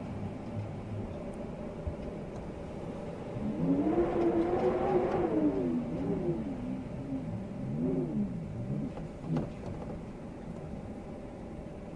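Storm wind howling in gusts: a moaning tone that rises and falls over a steady rush, swelling loudest about four to five seconds in and again more weakly near eight seconds. A brief sharp knock comes near the end.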